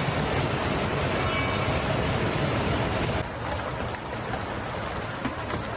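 Loud, steady rushing of torrential floodwater. About three seconds in it cuts to a quieter rushing with a few light clicks.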